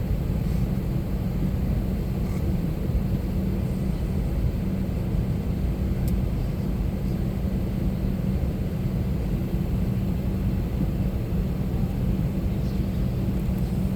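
Steady low cabin hum aboard an Airbus A321-200 waiting before departure, with an even drone and no changes.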